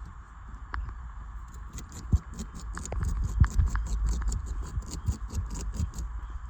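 A beaver gnawing and chewing on a branch: a quick run of sharp crunching clicks, about four to six a second, starting about a second and a half in and going on for several seconds. A low rumble runs underneath.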